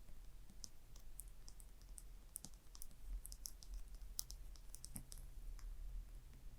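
Gentle tapping and scratching on a small object: quick, irregular, high-pitched little clicks with no steady rhythm, over a faint low hum.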